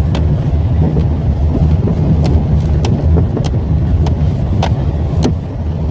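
A car driving slowly over a rough, potholed road: a steady low rumble of engine and road noise, with sharp knocks and rattles about once every half second to second as it goes over the potholes.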